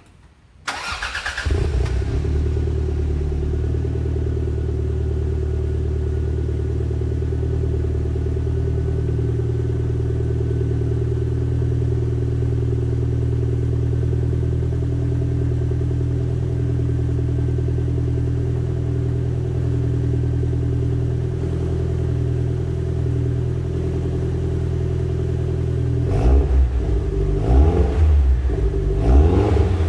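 Exhaust of a Toyota MR2 SW20's turbocharged 3S-GTE four-cylinder through a Berk Technology downpipe and muffler: the engine starts under a second in and idles steadily. Near the end it is revved in several quick blips, the pitch rising and falling each time.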